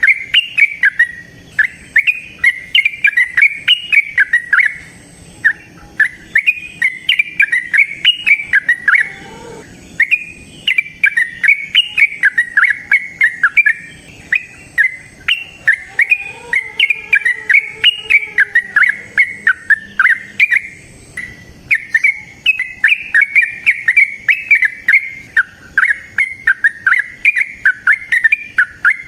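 Yellow-vented bulbul (trucukan) singing a long, fast chattering song, the 'ropel' song, in runs of quick notes with brief pauses every few seconds.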